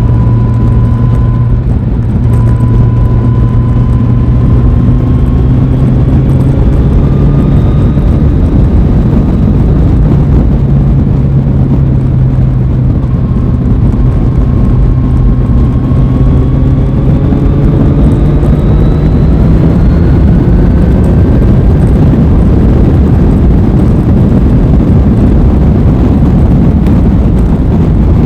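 Aprilia Tuono 660's parallel-twin engine running under way, its note held fairly steady and then rising gradually in the second half.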